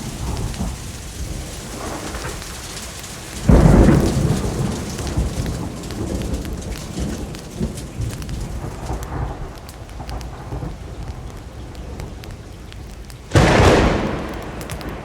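Steady rain with two claps of thunder, one about three and a half seconds in and one near the end, each starting suddenly and fading away over a second or two.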